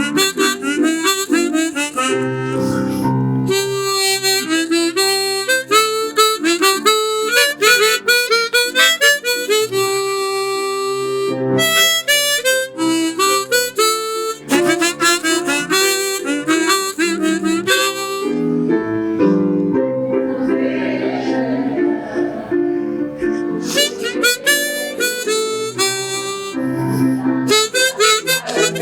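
Harmonica playing a lively melody over accompanying chords, with quick runs of notes.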